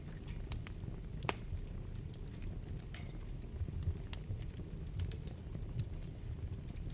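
Wood fire burning in a fireplace: a steady low rumble of flame, with irregular sharp crackles and pops of burning wood. The loudest pop comes about a second in.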